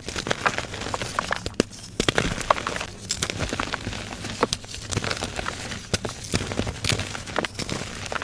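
Blocks of gym chalk being crushed, crumbling with a steady run of dry crunches and sharp crackling snaps.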